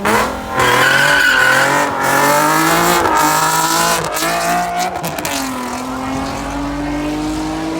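Car engine accelerating hard, its pitch climbing and dropping back about once a second as it runs up through the gears, then holding a long, slowly rising note.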